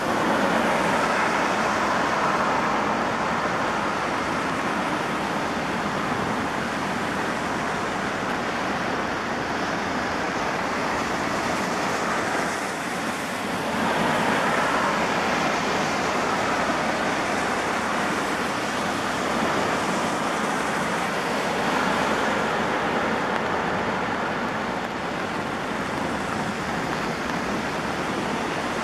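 Heavy rain falling steadily onto wet pavement, an even hiss of splashing drops.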